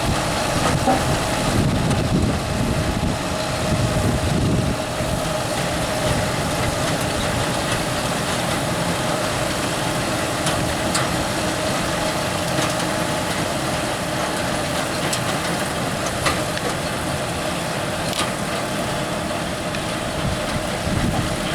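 Fendt 716 tractor and Grimme SE 85-55 potato harvester running steadily at work, a continuous engine and machinery hum with a steady mid-pitched tone. The low rumble is heavier in the first few seconds, and a few short clicks or knocks come later.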